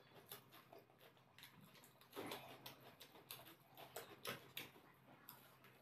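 Faint close-miked eating sounds: a person chewing a mouthful of rice and fish curry, with scattered small mouth clicks and smacks. They come in louder clusters about two seconds in and again around four seconds.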